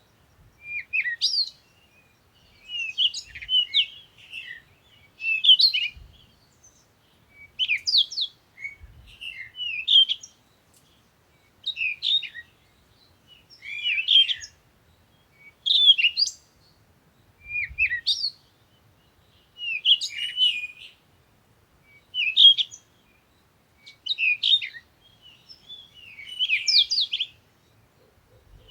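Songbirds chirping and tweeting in short, bright phrases that recur about every two seconds.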